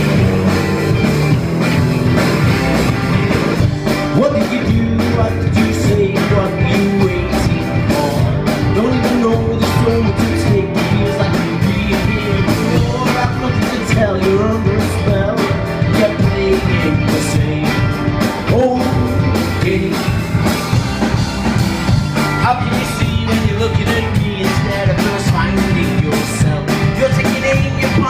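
Loud rock music from a band, with guitar and drums and a melodic lead line that bends in pitch.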